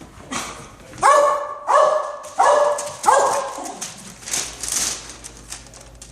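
A dog barking four times in quick succession, about two-thirds of a second apart, followed by a softer rustling noise.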